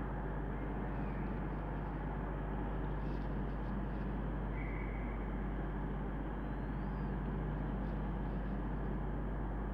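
Diesel train engines idling, a steady low drone, as the train stands waiting to depart.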